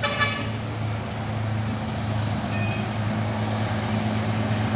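Heavy truck's diesel engine running at a steady low hum, with a brief high-pitched sound right at the start.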